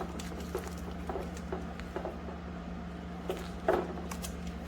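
Light handling noises: small taps, clicks and rustles as a hair dryer and its cord are handled, with a louder rustle about three and a half seconds in, over a steady low hum.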